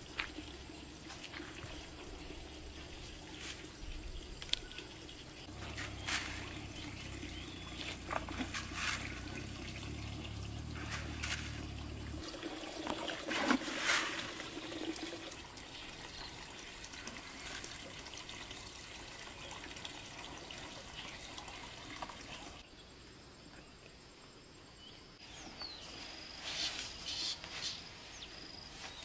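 Water trickling and pouring, with scattered light clicks and knocks.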